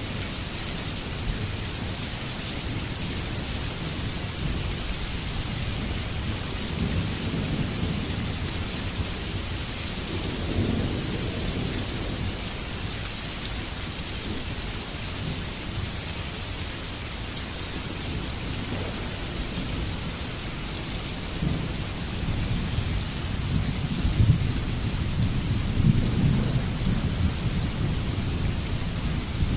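Heavy rain falling steadily, with low rolling thunder that swells about a quarter of the way in and builds again over the last few seconds.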